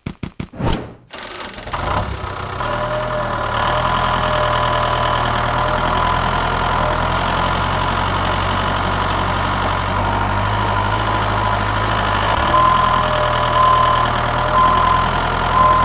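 A small engine starts with a quick run of clicks, then idles steadily from about two seconds in. High whistle-like notes come in over it near the end.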